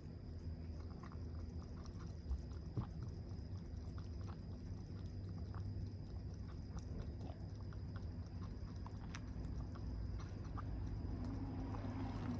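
A cat eating: soft, irregular small chewing clicks over a steady low hum.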